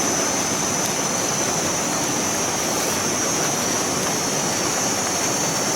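Steady rushing of flowing river water, with a steady high-pitched whine above it.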